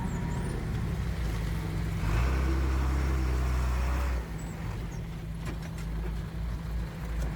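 Heavy diesel engine of earthmoving machinery running. It works harder and louder for about two seconds from roughly two seconds in, then eases back to a steadier, quieter run.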